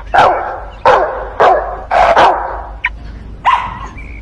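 A dog barking repeatedly, about a bark every half second, with a gap of about a second before the last bark.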